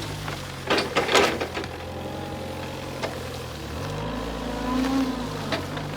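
Linde H35D diesel forklift engine running, with a brief burst of loud hissing and clattering noise about a second in. About four seconds in, the engine note changes and swells for a second or two, then settles back.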